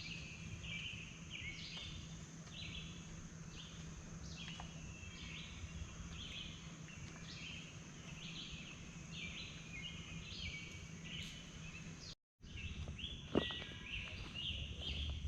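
Outdoor evening ambience: a steady high-pitched insect drone with short chirping calls repeating about twice a second. A single sharp knock comes near the end, just after a brief cut-out.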